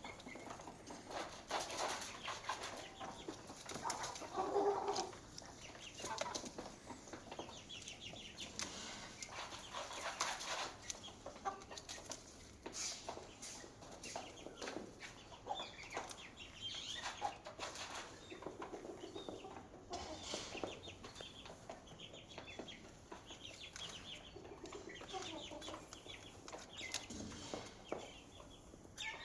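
Chickens clucking, with chicks peeping in high, rapid calls, over many short clicks and rustles throughout.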